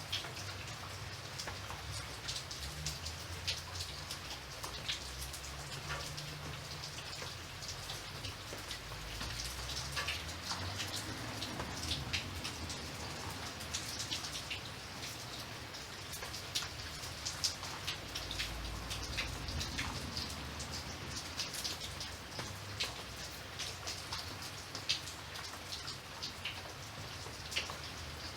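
Steady rain with many separate drops pattering on a surface, over a low rumble.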